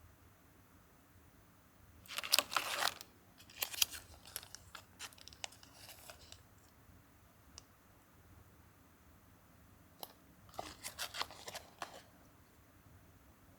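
Crinkly packaging being handled and torn open in bursts of crackling rustle: one about two seconds in, a longer run of crinkles and small clicks after it, and another burst near the end.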